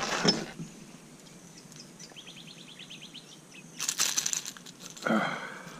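A small mangrove jack flapping and splashing as it is landed, in sudden bursts at the start and again about four and five seconds in. A short, rapid ticking trill sounds in the quieter gap between.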